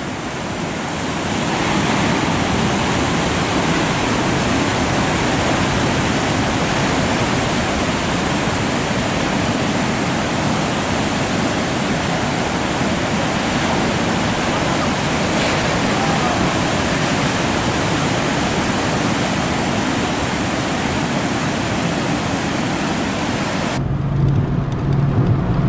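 Heavy ocean surf making a steady rushing roar that swells up over the first couple of seconds. About two seconds before the end it cuts off abruptly to a car's steady low engine hum.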